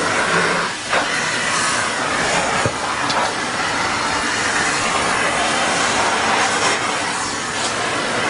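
Steady, loud rushing machine noise with a hiss, unbroken throughout, with a few faint clicks.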